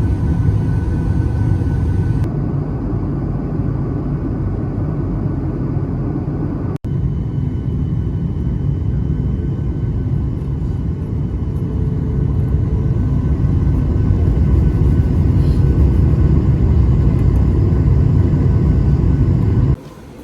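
Steady, loud low rumble of a vehicle in motion with a faint steady hum, cutting off suddenly near the end.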